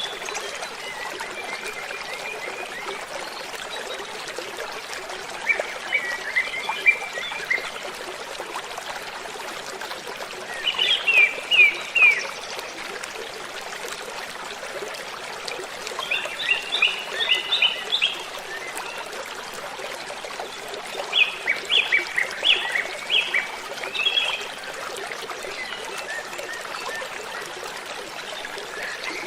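Steady rush of a waterfall, with a songbird singing short phrases of quick repeated chirps every few seconds over it.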